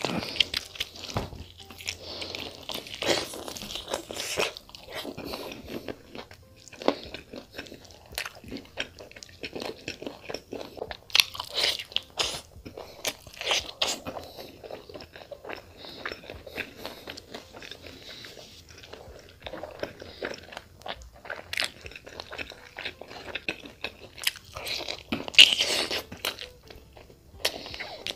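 Close-miked eating sounds of a person biting, tearing and chewing a large cooked chicken leg. The wet bites, smacks and crunches come in irregular bursts, with one louder burst a little before the end.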